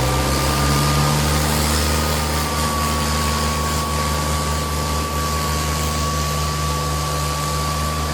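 Diesel tractor engines running steadily at high revs, with a steady high whine alongside the low engine note.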